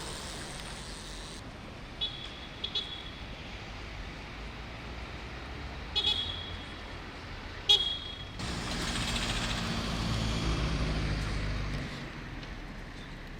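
Road traffic: a few short, high toots, like a vehicle horn, then a motor vehicle passing close for about three seconds.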